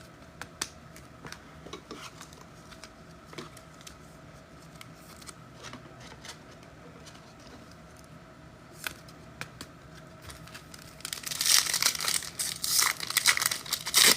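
Foil wrapper of a pack of football trading cards crinkling and tearing open, starting about eleven seconds in. Before that, only faint scattered clicks.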